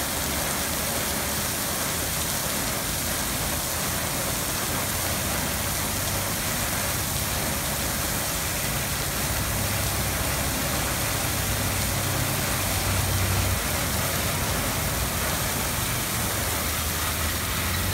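Steady hiss of artificial rain pouring from film rain towers, with a vehicle engine running low underneath that swells for a few seconds about two-thirds of the way through.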